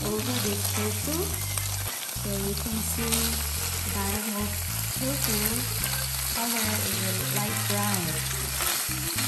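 Cubes of firm tofu sizzling in hot oil in a nonstick frying pan during their first fry, while a silicone spatula turns them over with light scrapes and taps against the pan.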